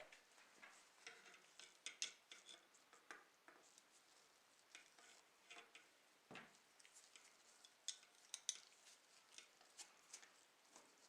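Faint, scattered small clicks and light scrapes of hard little parts and hand tools being handled, with a few sharper ticks about two seconds in and again around eight seconds.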